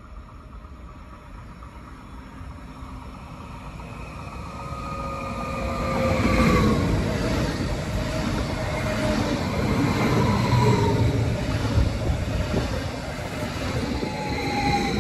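Red DB regional electric multiple unit passing along the platform: a rumble of wheels on rails that swells as it arrives, with motor whines that fall in pitch as the cars go by, about three times.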